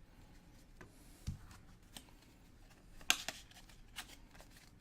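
Soccer trading cards being handled and flipped through: faint scattered clicks and rustles of card stock and wrappers, with a sharper pair of snaps about three seconds in.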